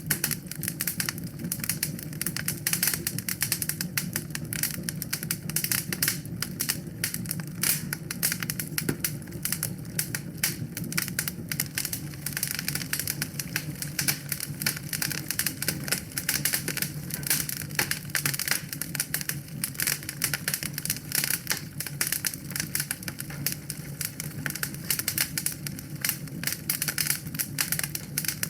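Wood fire burning in a fireplace, crackling steadily with many quick small snaps over a low, even sound of the flames.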